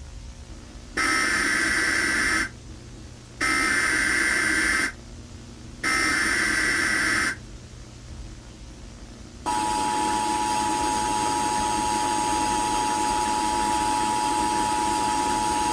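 Emergency Alert System broadcast tones. First come three harsh, screeching data bursts of the alert header, each about a second and a half with short gaps between. Then, a little past halfway, the steady two-tone attention signal starts and holds.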